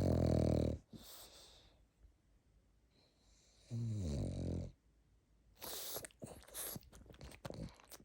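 Pug snoring in its sleep: two long, low snores, one at the start and another about four seconds in that wavers in pitch. In the last couple of seconds comes a run of quick small clicks.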